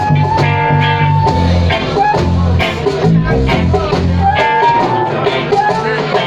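Guitar-led blues-rock music: a held, sliding lead line over bass and drums.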